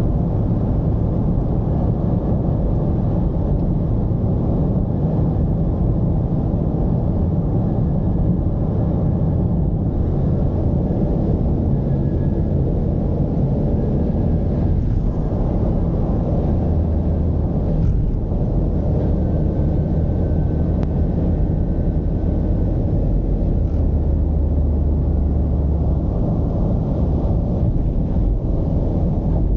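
Mercedes-Benz V220 diesel engine and road noise while driving: a steady low drone, with a deeper hum swelling at times in the second half.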